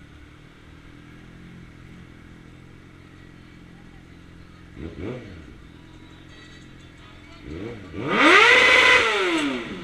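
Suzuki GSX-R600 inline-four engine turning over low and steady, then a short rev about five seconds in, and a long, loud rev near the end that climbs in pitch and falls back.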